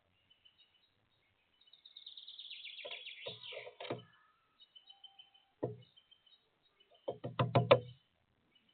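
Woodpecker hammering at sunflower seeds on a feeder: a few scattered knocks, then a quick run of about six loud knocks near the end. Before the knocks, a small bird sings a fast trill of falling high notes for about two seconds.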